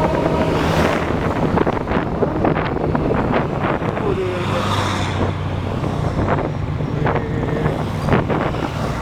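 Passenger train running on the rails: a steady low rumble and hum with irregular knocks and rattles, and wind on the microphone.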